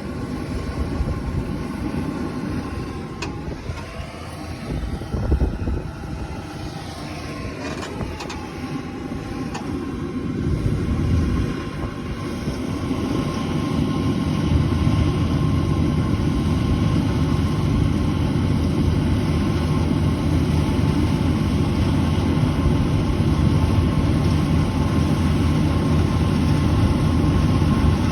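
Combine harvester's diesel engine and machinery running, with a steady hum and rumble; it gets louder about ten to fourteen seconds in, then holds steady and loud.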